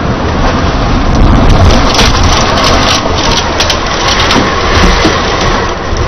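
Tornado storm: loud rushing wind and heavy rain noise, with scattered cracking and crunching sounds through the middle.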